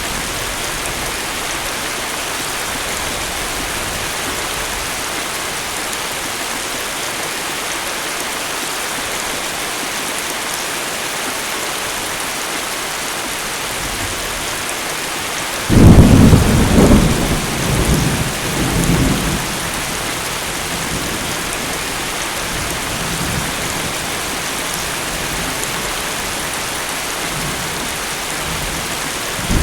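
Steady rain falling throughout, with a sudden loud thunderclap about halfway through that rolls on in several rumbles for a few seconds. Another rumble of thunder begins right at the end.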